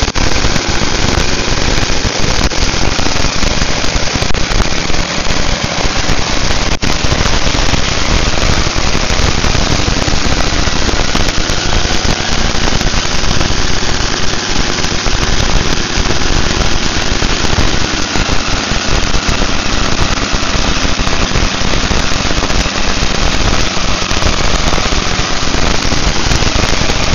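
Harley-Davidson Shovelhead air-cooled V-twin running loudly and steadily on a test stand during its break-in run.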